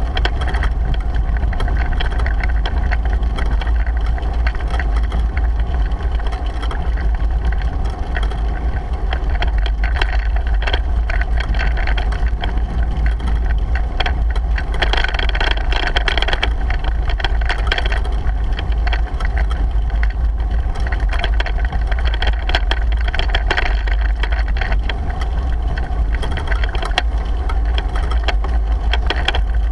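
Wind buffeting the microphone of a GoPro on a moving bicycle: a steady low rumble, with frequent small rattles and clicks from the bike riding over the road.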